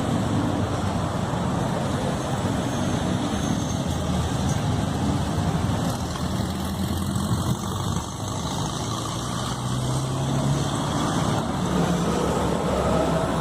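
Steady street traffic: bus and motor vehicle engines running, with road noise.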